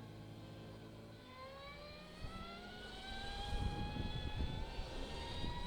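Energica Experia electric motorcycle accelerating hard: its motor whine rises steadily in pitch from about a second in. Wind rush on the helmet microphone grows as the speed builds.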